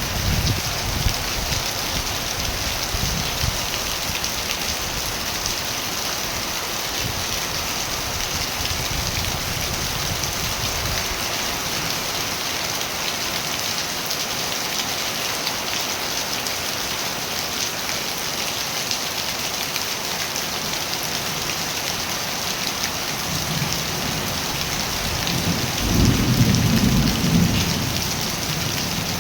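Steady, heavy rain falling. A low rumble of thunder swells for a couple of seconds near the end.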